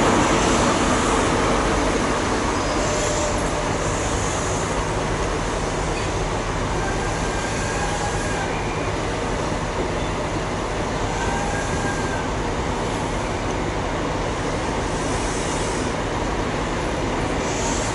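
Passenger train running past along the platform: a steady rumble of wheels on rail that eases slightly at first, with two brief faint wheel squeals near the middle.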